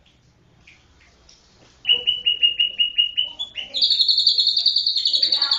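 White-rumped shama (murai batu, Medan type) singing. Soft scattered chips come first; a little under two seconds in, a quick run of about seven repeated clear notes a second begins, and near the middle this turns into a loud, rapid, high trill held to the end.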